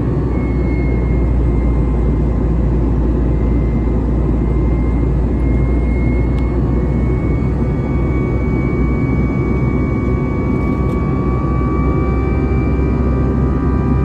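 Airbus A320's CFM56 jet engines and rushing air heard inside the cabin: a steady roar with a deep rumble and faint steady whining tones above it.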